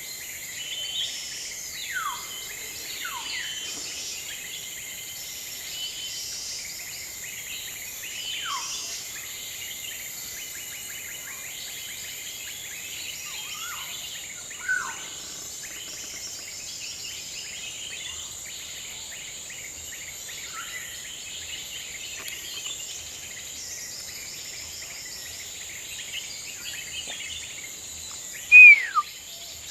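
Tropical forest ambience: insects drone steadily at a high pitch while birds give scattered falling whistled calls, the loudest one near the end.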